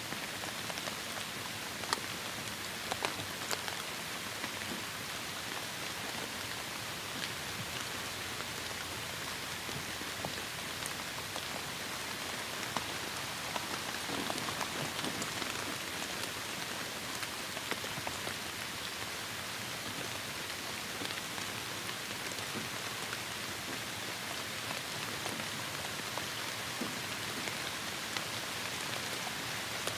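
Steady heavy rain falling on a surface, an even hiss with scattered sharper drop ticks.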